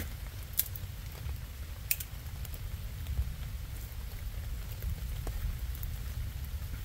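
Rain falling on and around a burning campfire: a steady patter over a low rumble, with scattered sharp ticks and pops, two of them louder about half a second and two seconds in.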